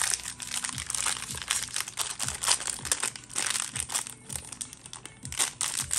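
Packaging of a Funko Pocket Pop advent calendar being opened by hand: dense, irregular crinkling and crackling of the wrapping, with a few soft bumps from handling.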